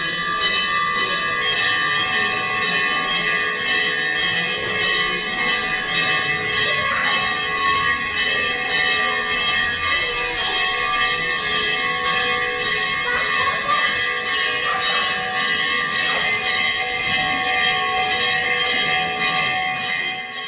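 Metal temple bells rung continuously, struck rapidly over and over, with several bell tones sounding together in a steady clangour.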